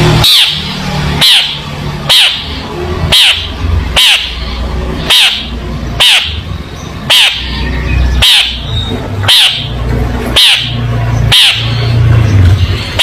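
A long-tailed shrike giving harsh, squawking calls about once a second, thirteen or so in a steady rhythm, over a low steady hum.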